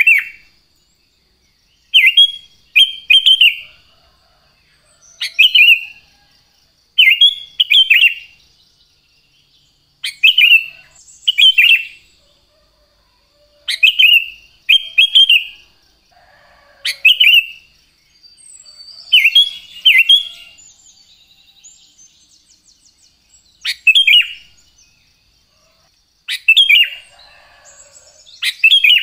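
Sooty-headed bulbul (kutilang) singing: short, loud phrases, often two in quick succession, repeated every couple of seconds, with a softer stretch of chatter about two-thirds of the way through. A faint steady high tone runs underneath.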